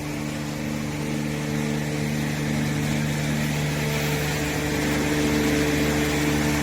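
An engine running steadily with a constant low hum, growing a little louder toward the end.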